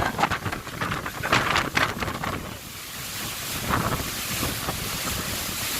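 Typhoon-force wind gusting and buffeting the microphone, in surges during the first two seconds and then as a steadier rush.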